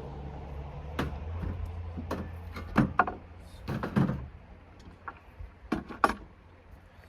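A truck door and its latches being worked: a string of sharp clicks and clunks, the loudest around three and six seconds in, over a low rumble that fades out about halfway.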